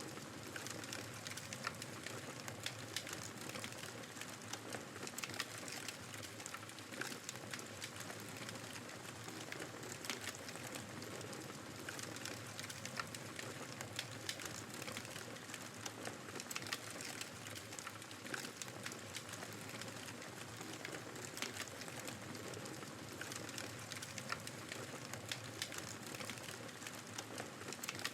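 Wood fire crackling in a fireplace, with many irregular small pops and snaps, over a steady rush of blizzard wind.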